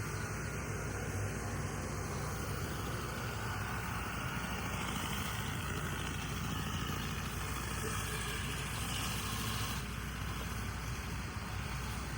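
A steady engine running at an even speed, with a low hum.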